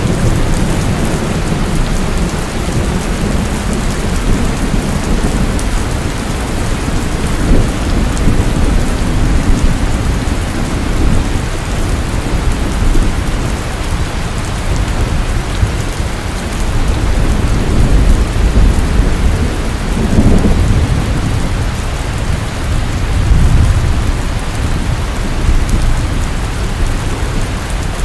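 Steady heavy rain pouring down, with low rolling rumbles of thunder that swell and fade several times.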